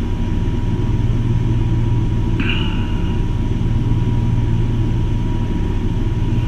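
Steady low mechanical hum with a thin constant tone above it, and one brief high chirp about two and a half seconds in.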